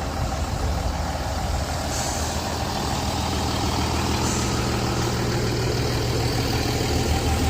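The diesel engine of a 1966 Scania-Vabis BF 76 bus running steadily, gradually getting louder, with two brief high hisses about two and four seconds in.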